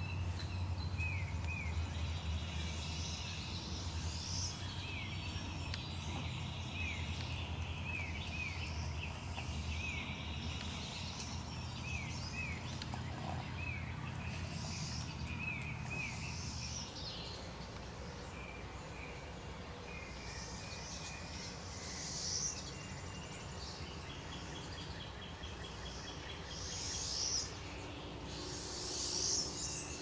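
Small birds calling outdoors: a run of short, repeated chirps over a steady low hum that stops about halfway through, then a few brief higher bird phrases near the end.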